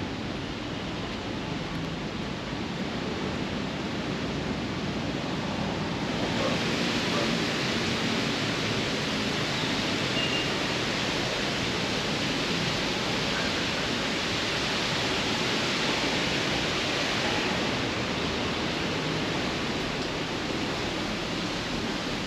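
Heavy rain pouring steadily, growing heavier and hissier about six seconds in.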